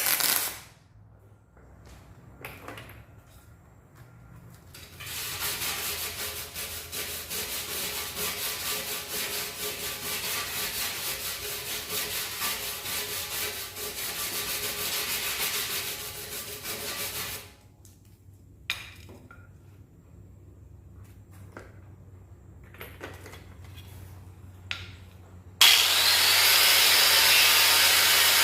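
A tool scrubbing or grinding for about twelve seconds with a fast, even rasping flutter, likely prep work on the metal tank before welding, followed by some light clatter; near the end a loud steady hiss starts suddenly.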